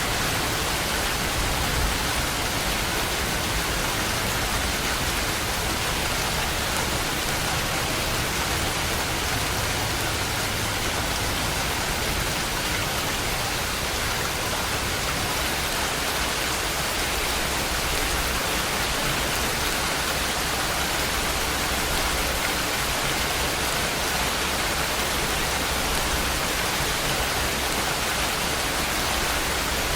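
Steady rain falling, a dense even hiss with no breaks or swells.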